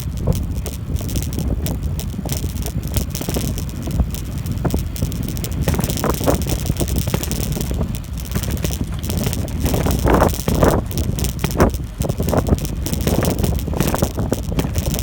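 Wind rumbling on the microphone during a bicycle ride, with the bike rattling and clicking over the path.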